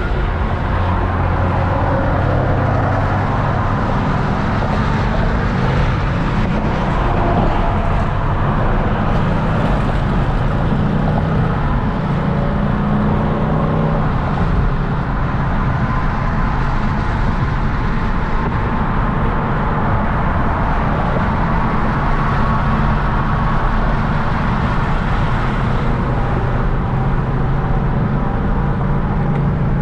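Hyundai Genesis Coupe 3.8's V6 engine and tyre noise while driving at a steady pace, the engine note drifting up and down slightly now and then.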